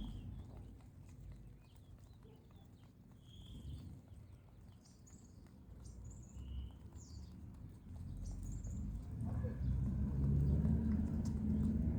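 Short, high bird chirps scattered through the clip, over a low rumble that grows louder about nine seconds in.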